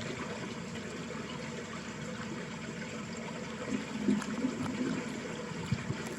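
Water running steadily in a small ditch channel, with a few deeper gurgles about two-thirds of the way through.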